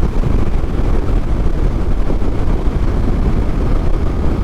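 Steady rush of riding wind on the microphone, with the Yamaha MT-07's parallel-twin engine running underneath while the motorcycle is under way.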